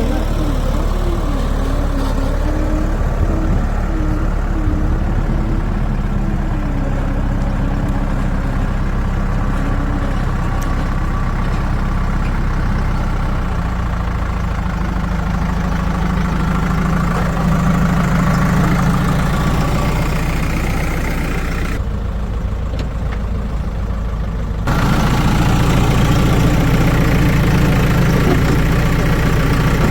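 Heavy diesel engine running steadily at low revs, with a brief change in the sound about 22 seconds in, after which it runs a little louder.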